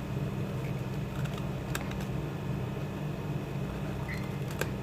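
Steady low background hum with two short clicks, about a second and three seconds apart: scissors snipping chart paper.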